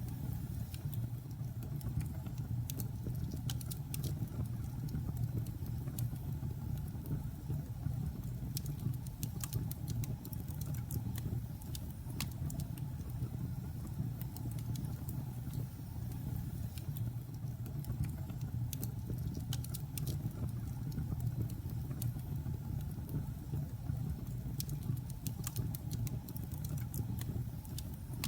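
Logs burning in a fireplace: a steady low rumble of the fire with frequent sharp, irregular crackles and pops.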